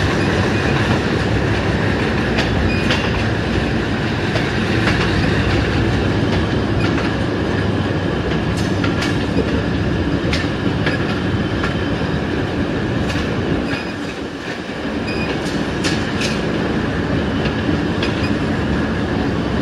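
Passenger train's coaches rolling into a station, a steady rumble of wheels on the track with clickety-clack and scattered sharp clicks over rail joints. The sound drops briefly about three-quarters of the way through.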